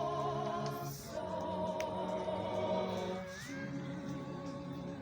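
Choir singing a hymn in long held chords with vibrato, moving to a new chord about a second in and again a little after three seconds.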